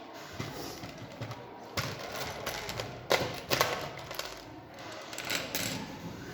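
Clicks, taps and knocks of small hard robot-kit parts being handled and taken apart. The knocks are irregular, with the sharpest pair a little past halfway.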